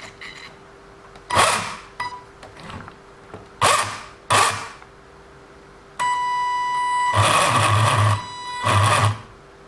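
WLToys 144001 RC car's electric motor and metal-gear drivetrain revved in five short bursts of throttle, with a high steady electronic whine through the last few. The drivetrain is grinding after the metal centre driveshaft install, which the owner feels is not right and is trying to trace.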